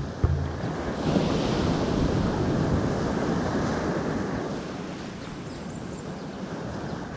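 Sea water washing and wind buffeting the microphone, swelling for a few seconds and then easing off, with a single sharp knock just after the start.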